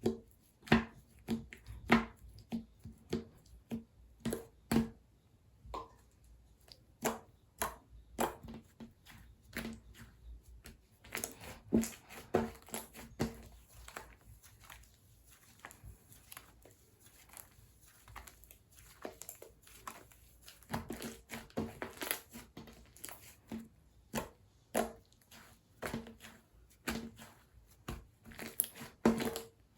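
Slime being squeezed, pressed and poked by hand, making irregular sticky clicks and pops, several a second at times, with short pauses between.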